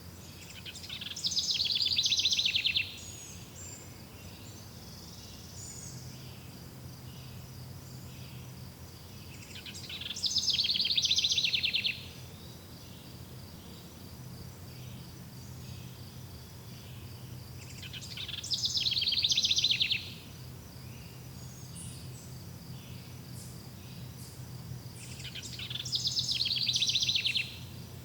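A songbird repeating the same rapid trilled song four times, about every eight seconds, each phrase swelling for about two seconds and stopping abruptly. Behind it a steady fast chirping of insects such as crickets runs throughout.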